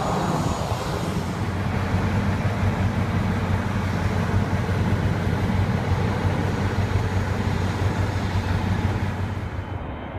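Boeing 737-300's CFM56 turbofan engines running during takeoff: a steady jet rush over a low hum, easing off slightly near the end.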